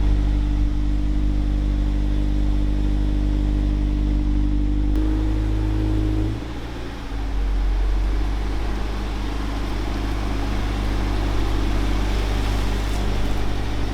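Car engine idling steadily, freshly started. About five seconds in, the note shifts slightly and briefly drops, then settles back into an even idle.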